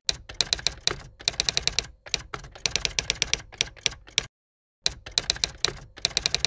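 Typewriter sound effect: rapid runs of clacking keystrokes, broken by a short stretch of silence about four seconds in, then more keystrokes.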